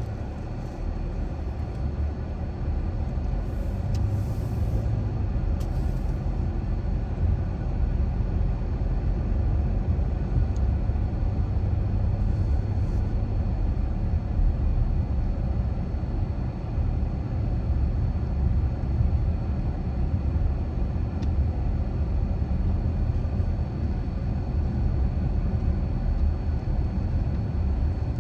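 A car driving along at a steady pace, with a low rumble of road and engine noise that grows a little louder over the first few seconds, then holds.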